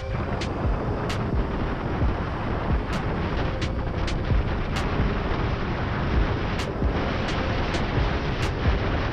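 Wind rushing and buffeting over the microphone while riding an electric dirt bike at speed, with a faint steady motor whine and scattered sharp clicks.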